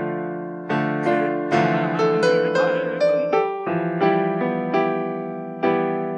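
Solo piano playing a slow hymn melody in chords, each struck note ringing and fading before the next.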